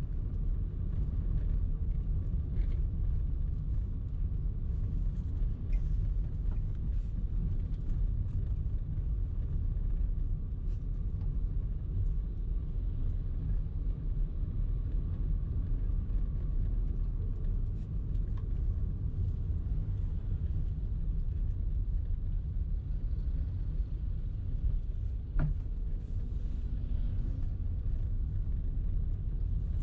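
Steady low rumble of a car driving: road and engine noise, with a few faint clicks.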